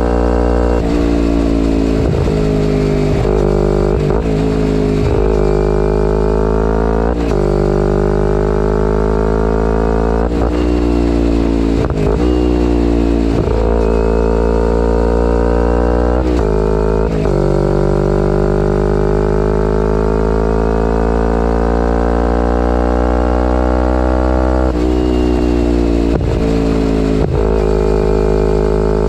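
Kawasaki Ninja 250R parallel-twin engine through a full Graves race exhaust, riding through the gears. The engine note climbs and then drops sharply at each gear change, a dozen or so times, with one long, slow, steady pull in the middle.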